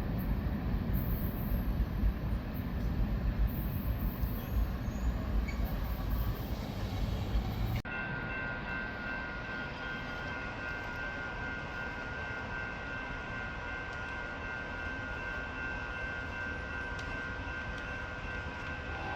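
Train rumbling past, loud and low. About eight seconds in it cuts to a quieter steady rumble with a few high, steady whining tones.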